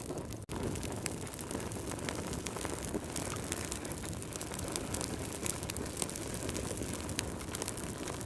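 Wood fire burning in a fireplace: a steady low rumble of flames with frequent sharp crackles and pops, and a brief drop-out about half a second in.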